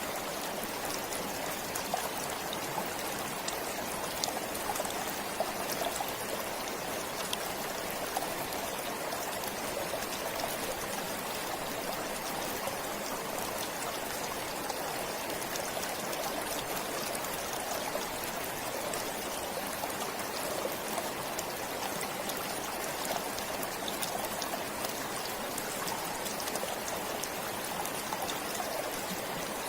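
Forest stream flowing steadily, an even rush of water with small splashes and trickles.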